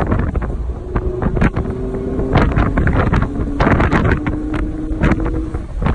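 Audi R8's V10 engine running under way, with heavy wind buffeting on the microphone and a constant low road rumble. The engine note drops in pitch about two seconds in, then rises again.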